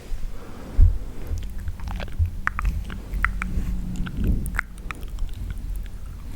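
Wet mouth sounds close to the microphone: irregular clicks and smacking pops of tongue and lips, several a second.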